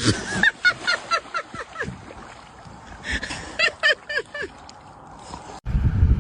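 An animal giving short calls in quick runs of five or six, each call dropping in pitch, about four a second. It calls twice with a pause between, and the sound cuts to a low rumble near the end.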